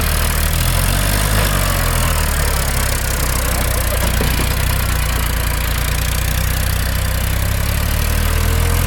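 Tractor diesel engine running steadily at a low, even speed, over a constant rushing noise.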